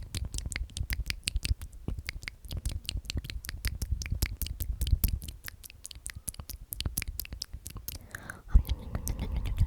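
Close-miked ASMR mouth sounds: rapid wet lip and tongue clicks, several a second, with soft low thumps on the microphone.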